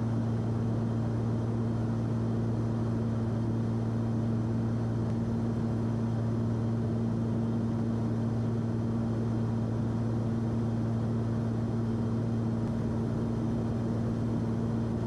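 Cessna 340's twin turbocharged piston engines and propellers droning steadily in the cockpit during a descent, a constant low hum that does not change in pitch.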